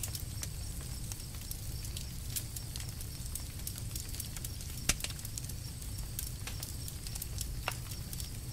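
Campfire crackling steadily over a low rumble, with many small sharp crackles and one louder pop about five seconds in.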